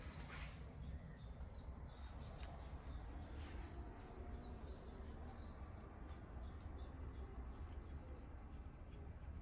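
Faint chirping of small birds, many short high calls repeating several times a second, over a steady low rumble.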